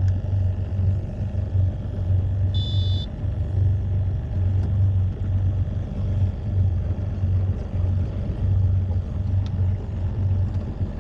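Motorboat's outboard engine running steadily, a continuous low rumble. A brief high electronic beep sounds about two and a half seconds in.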